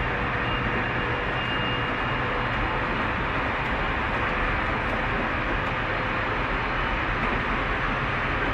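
Tobu 30000-series electric train running at steady speed, heard from inside the passenger car: an even rolling rumble of wheels on rail with a faint steady whine.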